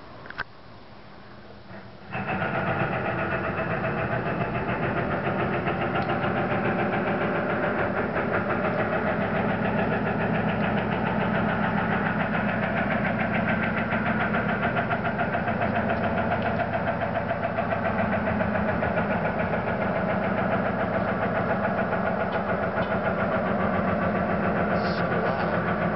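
Loud droning noise of unknown origin, one of the reported 'strange sounds', made of several steady tones with a fast rattling pulse through it. It starts abruptly about two seconds in and fades out just before the end.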